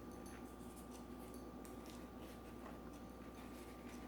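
Faint, scattered soft clicks and ticks of eating and handling food: mouth and utensil noises. A steady faint hum runs underneath.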